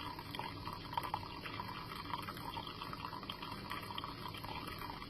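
Hot water trickling and dripping steadily through a K-cup in a manual single-serve press into a cup below, as the plunger slowly pushes it through.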